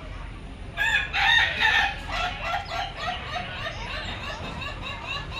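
Bird calls: a loud burst of calls about a second in, then short, rising calls repeated several times a second.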